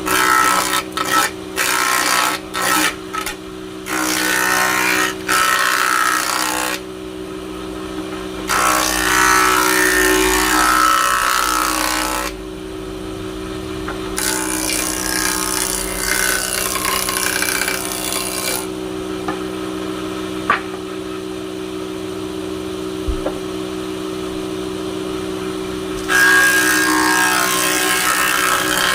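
Woodworking power tool running with a steady motor hum, with loud cutting noise from the wood coming in repeated passes: short quick ones in the first few seconds, then longer passes of several seconds each.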